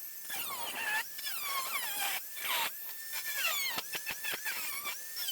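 Die grinder with a cut-off wheel cutting sheet steel: a high whine that drops in pitch each time the wheel bites into the metal, then climbs back, several times over.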